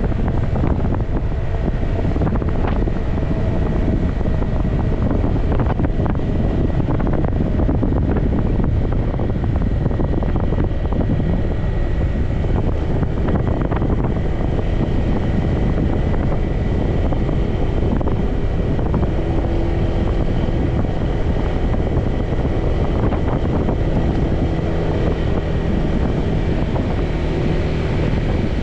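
Wind rushing over the microphone of a moving motorbike, with the motorbike's engine running steadily underneath.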